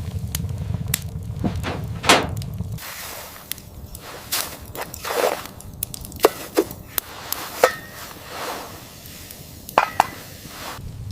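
A series of separate sharp knocks and thuds, about eight of them and irregularly spaced, with a low rumble that cuts off about three seconds in.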